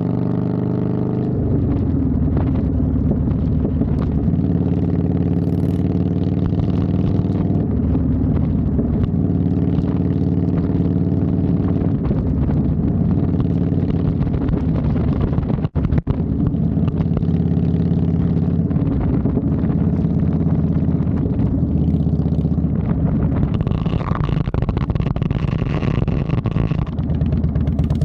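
Motorcycle engine running steadily under way, its pitch stepping down a couple of times as it changes speed. The sound cuts out for an instant about halfway through.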